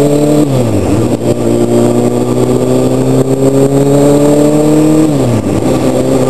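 Inline-four sportbike engine accelerating through the gears: the engine note climbs steadily and drops sharply at two upshifts, about half a second in and about five seconds in.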